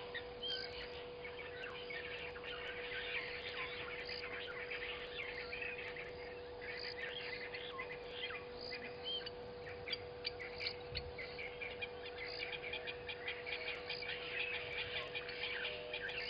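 Many birds chirping and calling over one another, short high calls thick throughout, over a steady hum.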